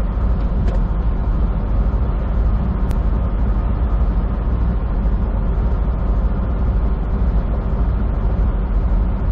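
Steady engine drone and road noise heard inside a semi truck's cab while it drives.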